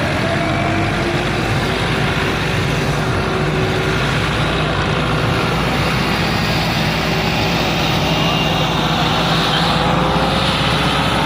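Fiat 640 tractor's four-cylinder diesel engine running steadily at a loud, even level, growing slightly louder near the end.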